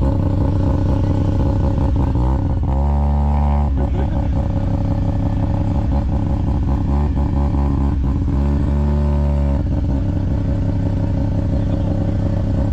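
A vehicle engine idling close by, revved up twice: once a couple of seconds in and again near the end, each rev held for about a second before dropping back to idle.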